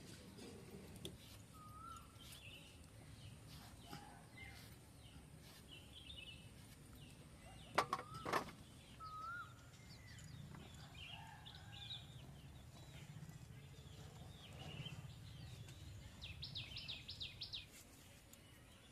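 Birds chirping and twittering here and there over a faint low hum, with two sharp knocks about eight seconds in and a quick run of clicks near the end.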